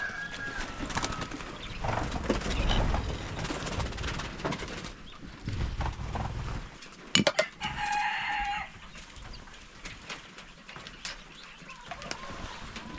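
Chickens clucking and calling, with one drawn-out pitched call about eight seconds in. Sharp knocks come just before that call, and low rumbling sounds come in two stretches earlier on.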